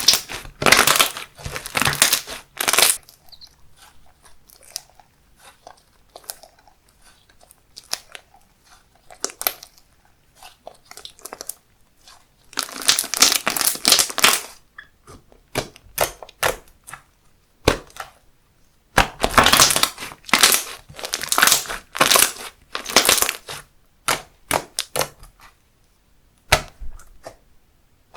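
Slime being squeezed and pressed by hand, giving crackling, popping clicks in three dense spells (at the start, about halfway and again near two-thirds through), with scattered single pops between.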